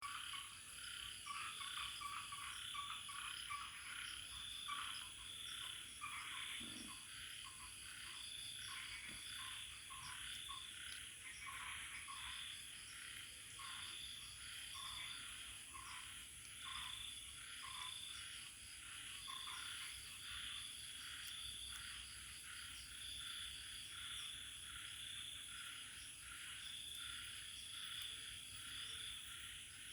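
A chorus of frogs calling in regular pulses, about one to two a second, over the steady high trilling of insects; the frog calls fade out about two-thirds of the way through while the insects carry on.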